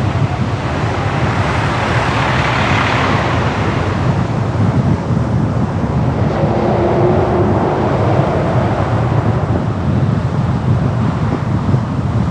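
Steady road and wind noise of a car driving through city traffic, with a brief swell in the noise about two to three seconds in.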